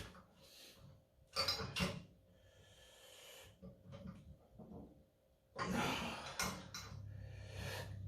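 A man breathing hard and exhaling forcefully while straining to lift a heavily loaded thick-bar rolling handle, with a few short clinks of metal; the longest, strongest effort comes in the last few seconds.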